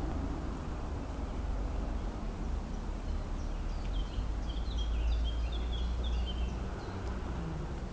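Steady low outdoor rumble, with a small bird chirping a quick run of short falling notes for a few seconds in the middle.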